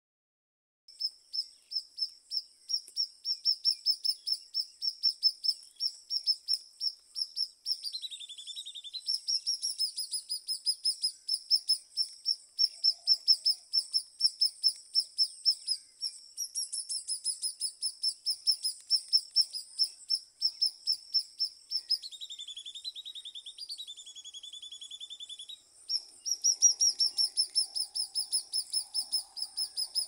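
A small bird chirping over and over in a steady run of high, evenly spaced chirps, about three a second, with a few stretches of lower, quicker notes.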